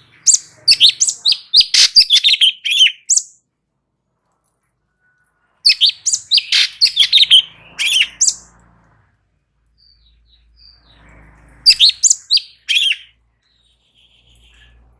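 Cucak cungkok, a bulbul, singing in three loud bursts of rapid high chirping notes separated by short pauses.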